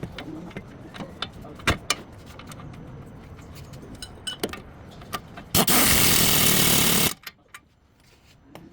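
Scattered clicks and knocks of tools on metal, then a loud burst from a power tool lasting about a second and a half, starting and stopping abruptly.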